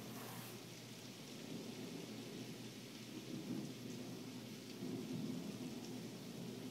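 Thunderstorm: steady rain hissing with a low, rolling rumble of thunder underneath.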